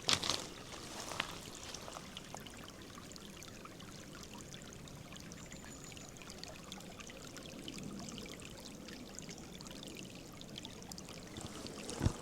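Clear shallow river water flowing and trickling steadily. A few sharp steps sound at the start, and one louder knock comes just before the end.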